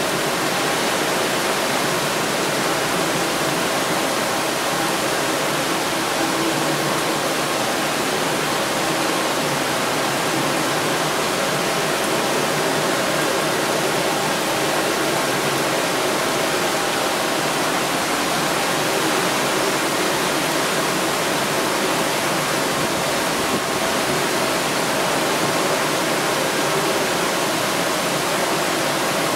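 Rainstorm at sea: rain falling steadily in an even hiss that holds without a break.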